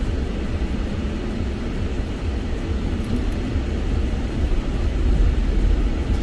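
A vehicle in motion: a steady low engine and road rumble.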